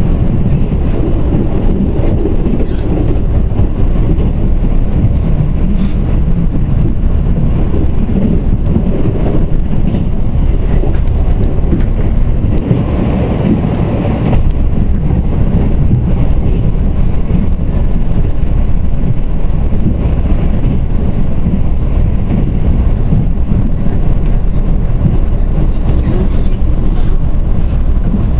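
Mugunghwa-ho passenger train running along the track, heard from aboard: a steady, loud rumble of wheels on rails, swelling briefly about halfway through.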